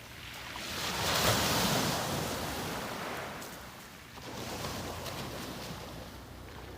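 Small sea waves breaking on the beach and washing back: one wave swells up about a second in and fades away, and a smaller wash follows about four seconds in.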